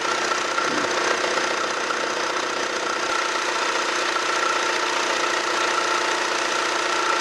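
BMW engine idling, with a steady high whine from the accessory drive belt, which the mechanic says makes noise at initial start-up.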